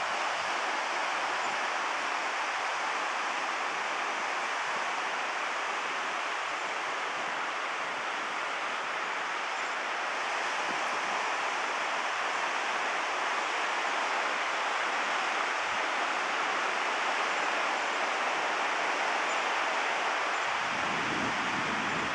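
Steady, even wash of ocean surf breaking on the beach below, with no distinct single waves standing out.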